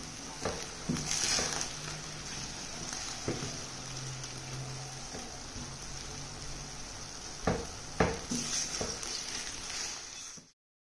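Spiced minced mutton frying in oil in a pan: a steady sizzle, with a spoon stirring and knocking against the pan a few times, most often near the end. The sound cuts off suddenly just before the end.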